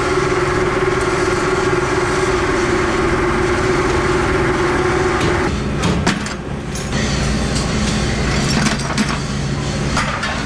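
Workshop machinery running with a steady hum. About five and a half seconds in the hum drops lower and is joined by scattered knocks and clatter.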